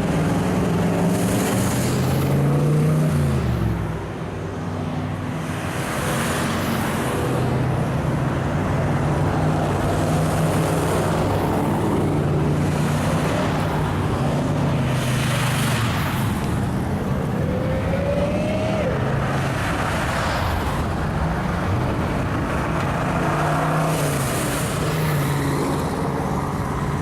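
1957 Chevrolet stepside pickup's engine running at low, steady speed, its note dropping about three or four seconds in as it slows, then holding. Other traffic passes by now and then.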